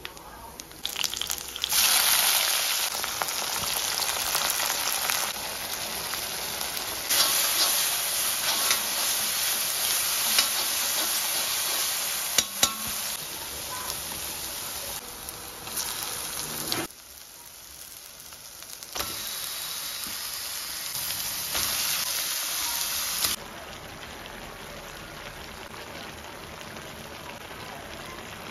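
Whole spices, then garlic, green chillies and chopped onion sizzling and frying in hot oil in a pan: a loud, even crackling hiss that breaks off and returns a few times, with a couple of sharp clicks about twelve seconds in. It settles to a quieter steady sizzle over the last few seconds.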